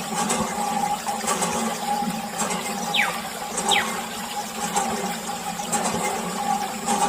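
Small DC water pump of a homemade toy tractor running with a steady hum, water spraying and splashing. Two short falling squeaks come about midway.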